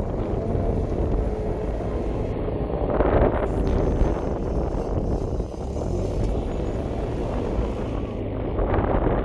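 A vehicle engine running steadily, overlaid with wind buffeting the microphone; the wind gusts louder about three seconds in and again near the end.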